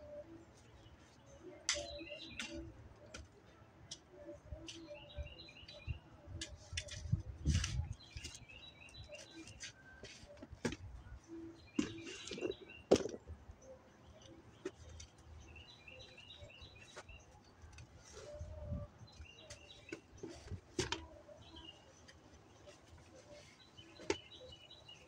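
Birds chirping in short phrases repeated every few seconds, with scattered sharp knocks and clicks from garden tool work.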